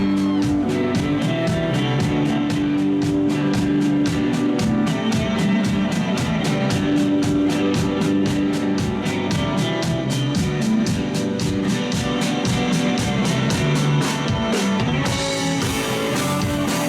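Rock band playing an instrumental passage: electric guitar and bass over drums keeping a steady cymbal beat, with the cymbals growing brighter near the end.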